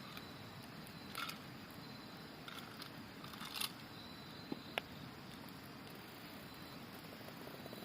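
Campfire crackling with a few soft pops and two sharp snaps a little over four seconds in, over the steady rush of a river. Autumn insects sing in a thin, high tone behind it.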